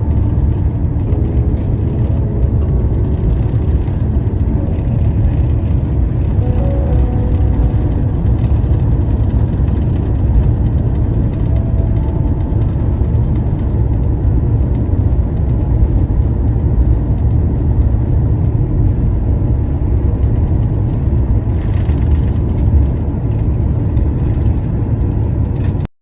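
Steady low rumble of vehicle or traffic noise, with faint music fading in the first few seconds; it cuts off suddenly at the end.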